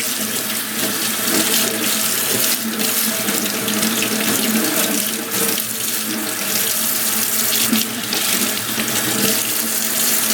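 Kitchen tap running steadily into a sink as raw shrimp are rinsed and cleaned under the water.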